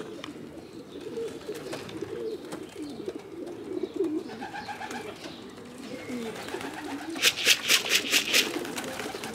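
Racing pigeons cooing steadily, many birds at once, in a loft. Near the end a quick run of about seven sharp claps cuts across the cooing.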